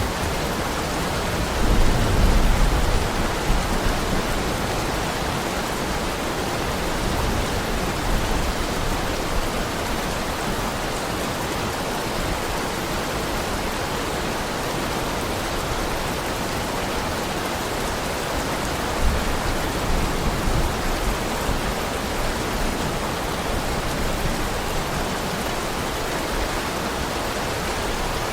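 Steady heavy rain, an even hiss of falling water, with a low rumble swelling about two seconds in and again about two-thirds of the way through.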